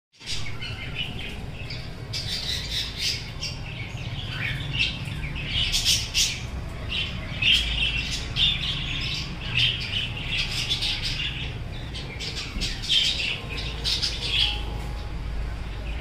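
Many birds chirping and squawking in quick, overlapping calls, over a low steady rumble.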